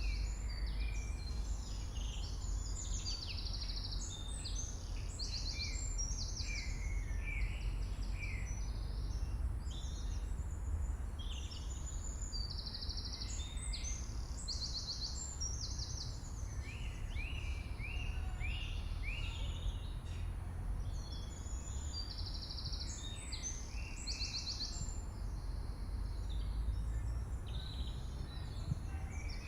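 Several birds chirping and trilling in quick repeated phrases over a steady low rumble.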